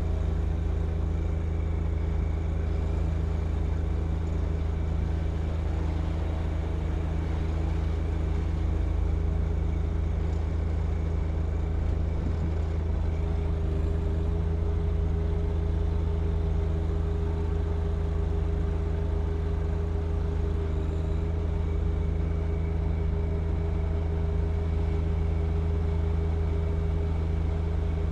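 John Deere 1025R compact tractor's three-cylinder diesel running at a steady speed, driving its snow blower. The drone holds even throughout, with no change in engine speed.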